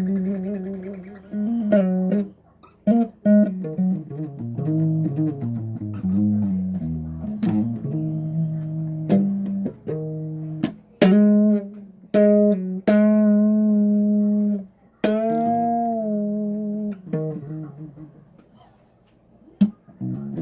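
Electric bass guitar played on its own: a run of plucked single notes, some held and one bent up in pitch about three-quarters of the way through. It goes quiet briefly near the end, apart from one more pluck.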